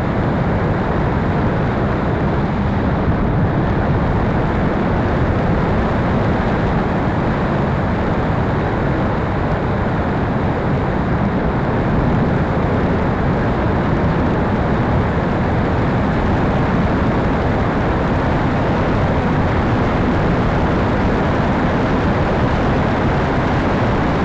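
Steady wind noise on the microphone, with no motor whine or other pitched sound standing out.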